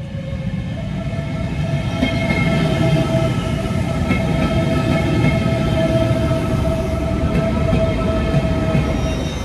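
Alfa Pendular electric train running, a steady whine held on one pitch over a low rumble, growing louder over the first two seconds.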